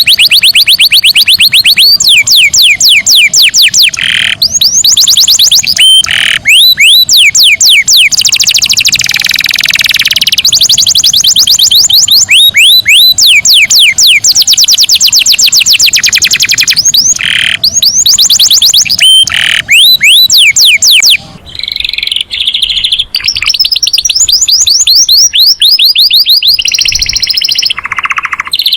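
Domestic canary singing loudly in rapid trills of quickly repeated sweeping notes, switching from one trill to the next every second or two, with a brief lull about two-thirds of the way through.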